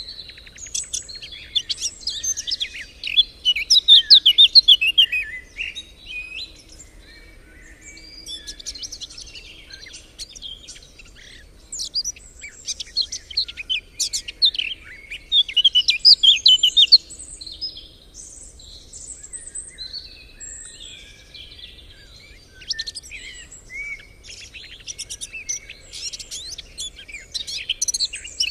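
Songbirds singing and chirping, several songs overlapping in loud runs of a few seconds with quieter chirps between.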